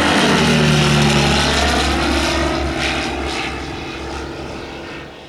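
Propeller-driven aircraft engine passing, its pitch falling slightly at first and the sound fading away.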